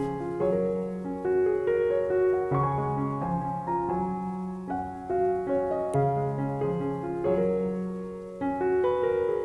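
Gentle background piano music: slow, sustained chords with a bass line changing about every second or two.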